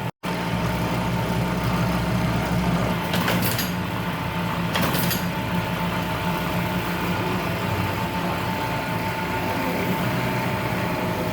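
A motor or engine running steadily with a constant hum, with a few faint clicks or taps about three and five seconds in.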